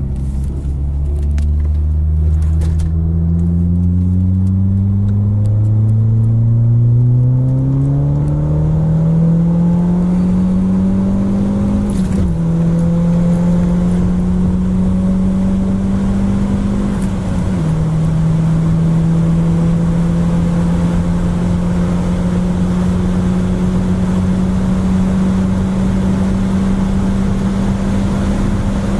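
Stage 3 tuned Saab 9000's turbocharged four-cylinder engine under hard acceleration, heard from inside the cabin: its note rises steadily, drops suddenly in pitch about 12 and 17 seconds in, then holds a high, nearly steady note over road and wind noise.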